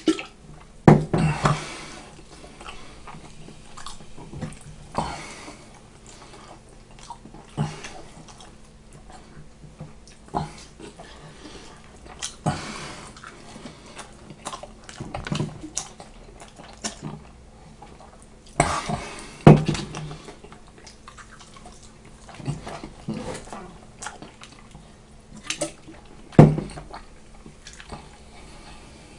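Wet chewing and smacking of raw bacon being eaten as fast as possible, with irregular louder wet mouth noises every few seconds.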